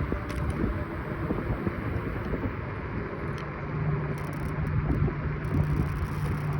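Riding noise of a Kaabo Wolf Warrior 11 Pro electric scooter on the move: wind and road rumble with some rattle, and a steady low hum that comes in about halfway through.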